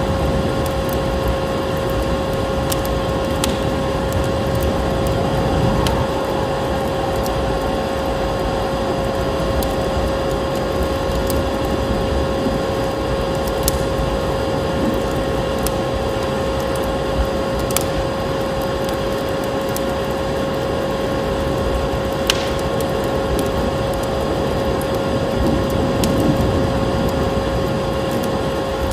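Vacuum cleaner running steadily with a constant high hum and a rush of air, with scattered sharp crackles and pops of a wood fire over it.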